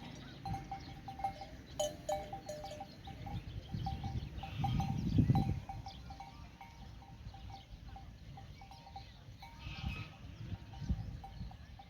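Small bells on a grazing flock of livestock clinking again and again in an uneven rhythm. A louder low rumble swells and fades about five seconds in.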